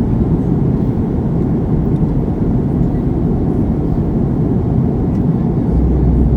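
Airliner cabin noise during descent: a steady rush of jet engine and airflow noise, heavy at the low end. A deeper steady rumble grows stronger near the end.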